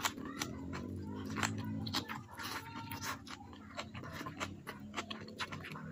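Close-miked chewing with many sharp wet mouth clicks and smacks as a mouthful of stir-fried water spinach (kangkung) and rice is eaten by hand.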